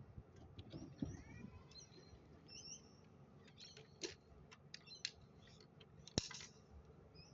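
Faint bird chirps with short, high gliding notes, broken by several sharp clicks, the loudest about six seconds in.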